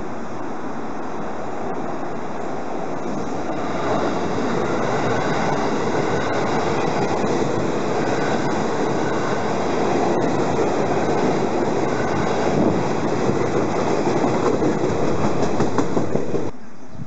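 JR West 221 series electric train running past close by: a steady rumble of wheels on rail that grows louder about four seconds in, with the clickety-clack of wheels over rail joints near the end. The sound cuts off abruptly just before the end.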